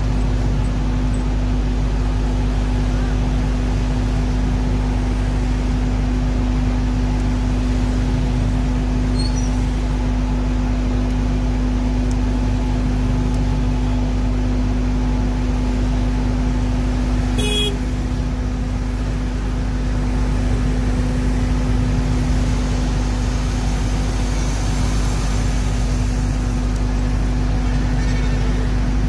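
Fire engine's engine running with a steady, even drone and low rumble. A single short high-pitched blip sounds a little past halfway.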